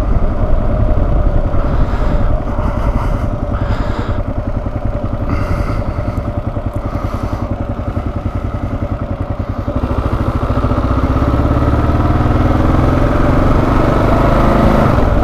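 Kawasaki KLR650 single-cylinder motorcycle engine running on the road. The note rises steadily from about ten seconds in as the bike accelerates.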